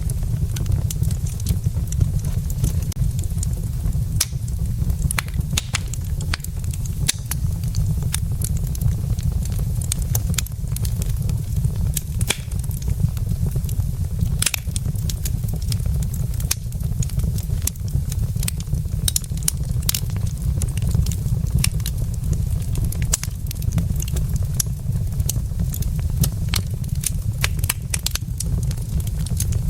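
Burning wood logs in a fireplace crackling, with frequent irregular sharp pops over a steady low rumble.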